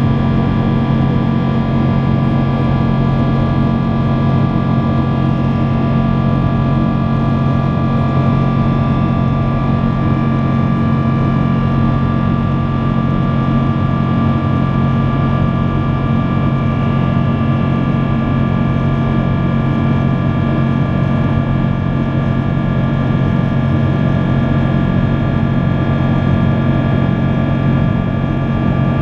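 Boeing 777-200 jet engines running at steady power, a constant loud drone with a deep, unchanging hum.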